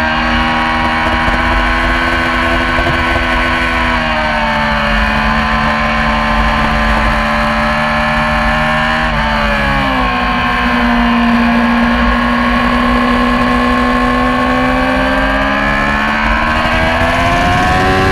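Yamaha R6 600cc inline-four sport bike engine running hard at high revs during a race. The pitch holds steady, drops sharply about nine seconds in, then climbs again and eases off near the end.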